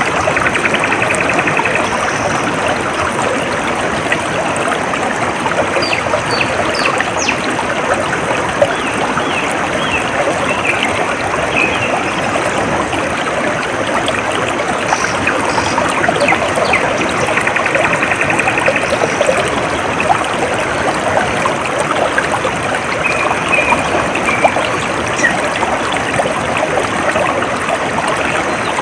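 A small stream trickling and babbling steadily over stones, with a few short bird trills now and then.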